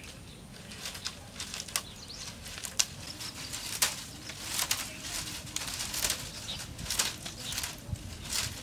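Irregular rustling with scattered light clicks and knocks.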